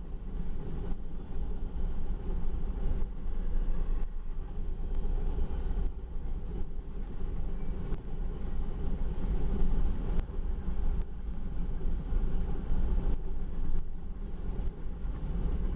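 Grain train cars rolling past on the main track: a steady low rumble with faint wheel clicks about once a second.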